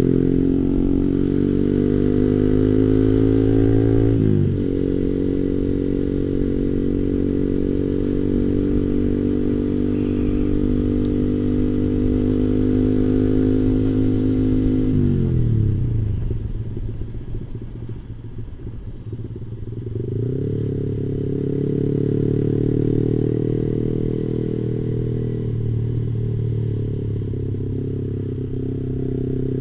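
Yamaha R15 V3's 155 cc single-cylinder engine through an aftermarket Arrow-replica racing exhaust, running at a steady pitch. The note dips briefly about four seconds in, falls away around the middle into a rougher, lower stretch, then picks back up and holds steady again.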